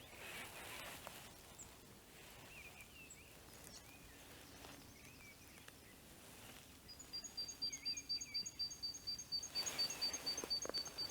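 Small birds calling faintly in the trees: scattered short chirps, then from about seven seconds in a fast, steady series of high, thin notes, about four a second.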